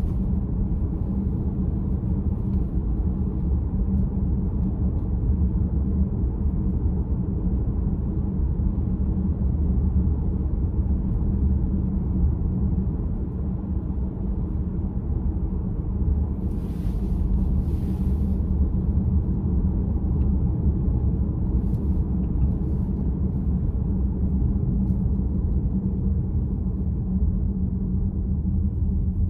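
Steady low road and tyre rumble inside the cabin of a VW ID.4 electric SUV while driving, with no engine note.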